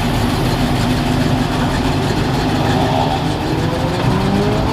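Car engines idling steadily, with one engine beginning to rev up and accelerate, rising in pitch, near the end.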